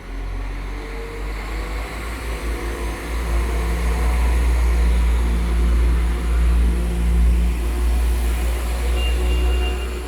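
A Class 172 Turbostar diesel multiple unit pulling away from the platform. Its engine rumble builds about three seconds in and then holds steady.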